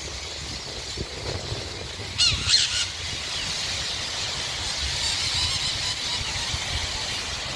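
A large flock of birds calling: a continuous mass of high chatter, with a few louder, sharp calls about two and a half seconds in.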